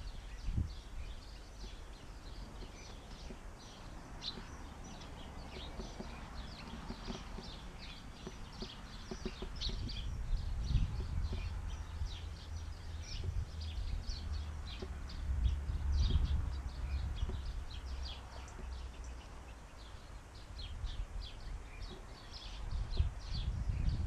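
Small garden birds chirping, many quick high calls scattered throughout, over a low rumble that swells around the middle and near the end.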